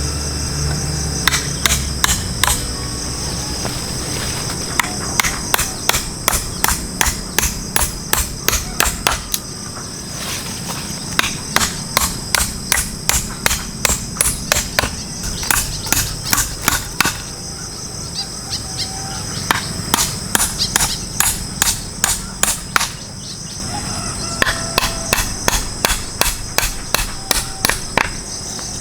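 Runs of quick, evenly spaced taps, about three a second, pausing every few seconds, over a steady high insect drone.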